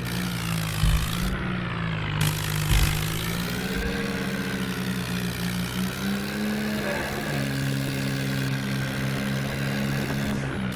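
Tractor diesel engine running steadily, its pitch drifting a little up and down, with a few brief knocks.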